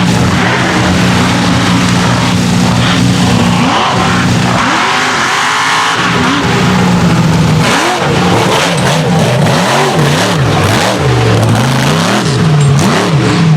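Mega truck's engine revving hard as the truck runs the race course. Its pitch rises and falls again and again, about once a second in the second half.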